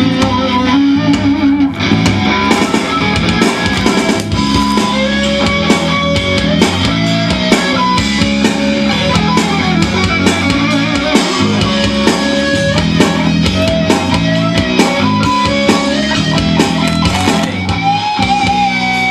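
A malfunctioning JBL powered speaker blaring loud, distorted noise, with held tones that jump and slide in pitch over a dense low rumble and crackles. The speaker has gone haywire on its own, not playing a song.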